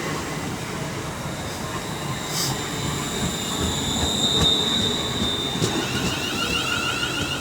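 Two coupled Class 350 Desiro electric multiple units running into the platform and slowing, with a high steady squeal that is loudest about four seconds in. A second high, wavering tone joins near the end.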